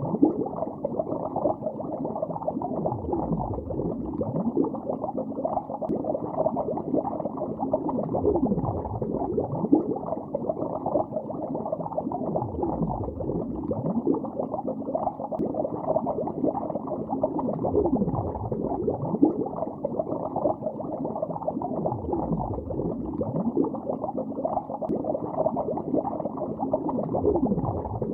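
Bubbles rising through lake water, heard underwater: a continuous muffled bubbling and gurgling with nothing high-pitched in it. Fuller low swells come round every four to five seconds.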